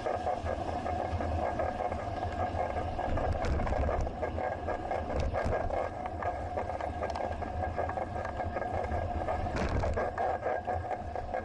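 Riding noise from a moving bicycle as picked up by an action camera: a steady low rumble and hum with frequent small clicks and rattles.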